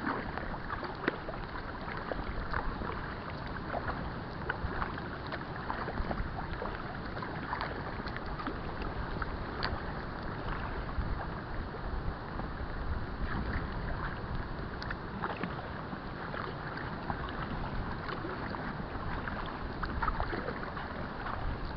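Water lapping and splashing around an inflatable kayak, with many small irregular splashes and drips over a steady wash, and a low wind rumble on the microphone.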